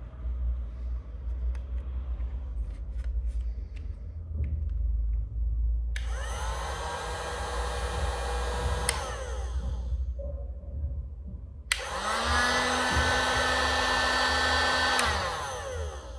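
Kalibr TP-2050 heat gun switched on twice. Each time its fan motor whines up to speed, blows steadily for about three or four seconds, then winds down with a falling pitch when switched off.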